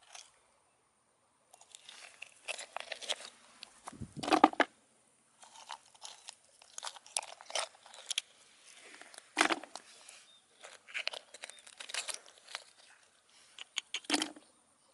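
Irregular crunching and rustling, with three heavier thumps about four, nine and a half and fourteen seconds in.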